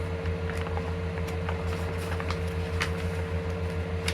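A steady electrical hum, a low drone with a higher tone above it, with scattered light clicks of an RC car's plastic radio transmitter being handled and its switches worked.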